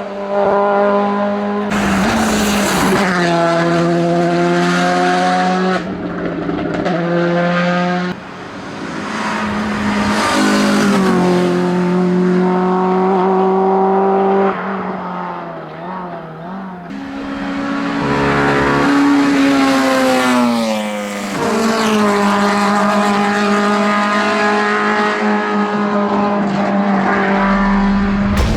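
Racing car engine revving hard at high rpm, its pitch climbing and dropping in steps as it shifts through the gears and lifts off for corners. It fades down about a third of the way in and again just past halfway, then comes back at full throttle.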